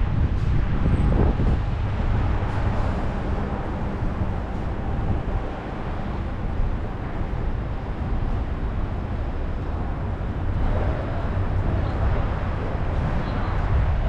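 City street ambience: steady road traffic noise with a low rumble, without a break.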